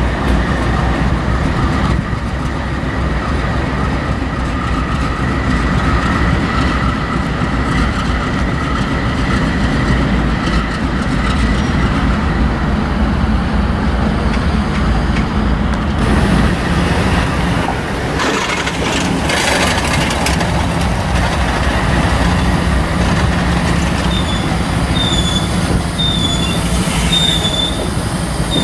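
Freight train moving slowly through a rail yard: the low rumble of a GE C44-9W diesel locomotive under the steel wheels of autorack cars, which squeal on the rails. About two-thirds of the way through there is a burst of clanking and rattling, and near the end a run of short, high wheel squeals comes about once a second.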